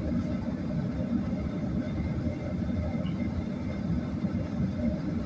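Steady low rumble of engine and airflow noise heard inside the cabin of a Boeing 737 airliner.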